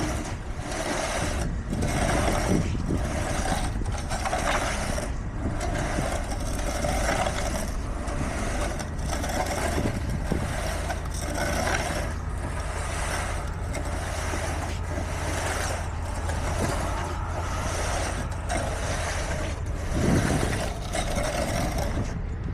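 Heavy diesel construction machinery running steadily, with a regular pulsing about three times every two seconds over a constant low engine hum.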